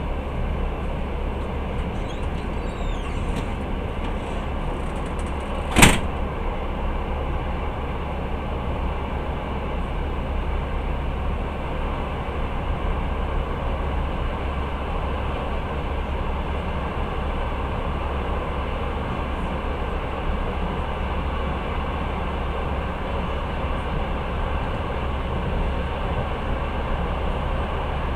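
Steady low rumble and running noise of a passenger train in motion, heard from inside the carriage, with one sharp knock about six seconds in.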